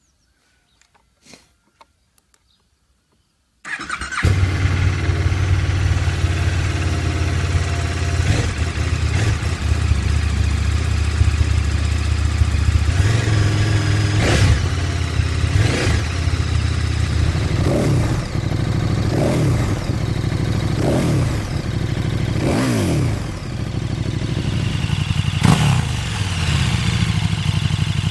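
A few faint clicks, then the KTM 1290 Super Duke R's V-twin engine starts from cold about three and a half seconds in. It settles into an idle and is revved in a series of short throttle blips, each rising and falling.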